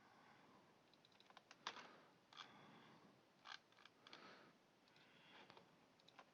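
Near silence with a few faint, scattered clicks from typing on a computer keyboard.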